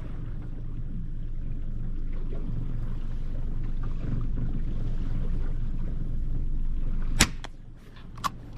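Boat motor idling with a steady low rumble, then a single sharp gunshot from the hunting rifle about seven seconds in, followed by a fainter click near the end.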